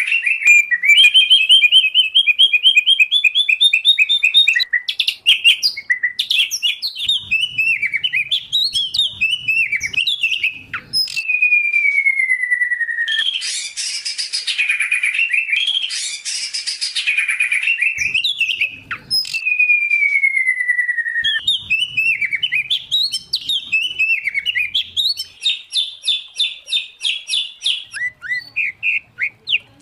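Songbirds singing loudly without pause, a mix of white-rumped shama, oriental magpie-robin and greater green leafbird: fast harsh rattles, quick runs of repeated notes and long falling whistles. The same sequence of phrases comes round twice.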